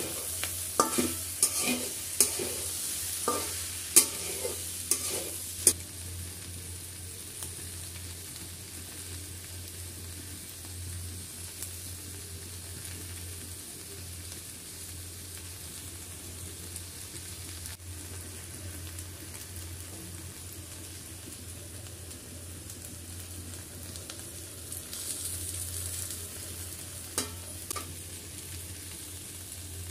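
Okra and egg frying in oil, a steady sizzle, while a spatula stirs them in the pan. It knocks and scrapes against the pan in quick strokes through the first six seconds and twice more near the end.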